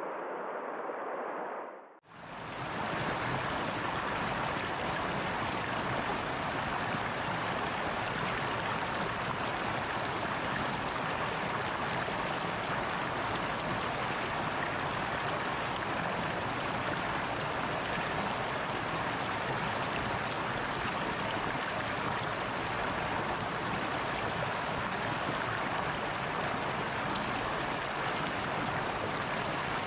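Steady rushing water, an even unbroken sound with no surges. About two seconds in a duller, muffled water sound cuts out briefly before it begins.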